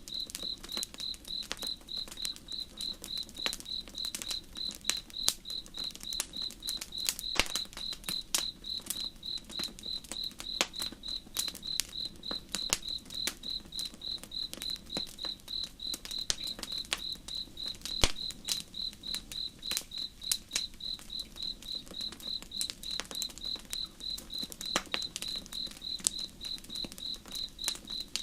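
Campfire crackling with irregular sharp pops, one louder pop about two-thirds of the way through, over a cricket chirping steadily about three times a second.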